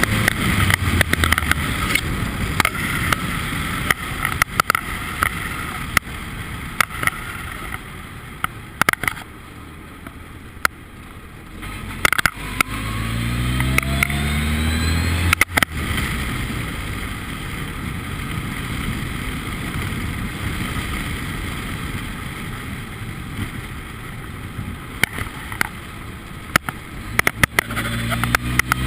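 Formula Ford race car engine accelerating, its pitch rising twice: once past the middle and again near the end. Under it runs a steady rush of wind or road noise, with frequent sharp knocks.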